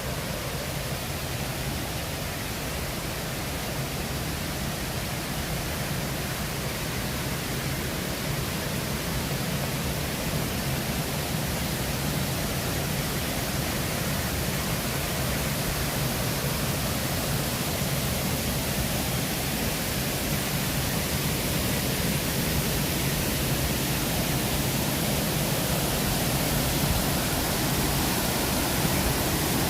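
Steady rush of cascading waterfall water, an even roar that slowly grows a little louder.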